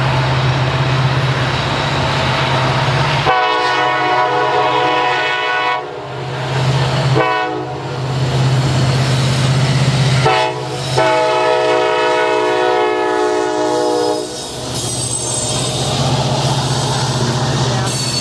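A Norfolk Southern train's locomotive air horn sounds a long blast, a short blast, then another long blast over the steady running of the locomotive's engine and the rumble of the train on the rails.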